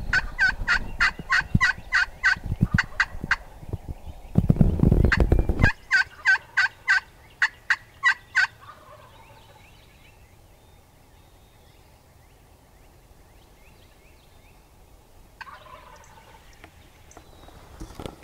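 Wild turkey gobbling: two runs of quick, evenly spaced rattling notes with a loud low rumble between them about five seconds in. The gobbling stops about halfway through.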